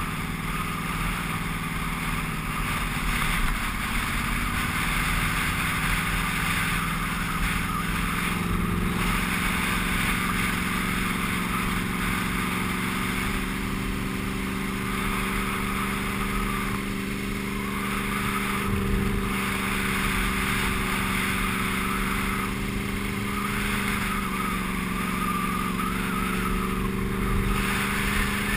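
Sport motorcycle engine running steadily under light throttle. Its pitch rises a few seconds in and dips briefly about two-thirds of the way through.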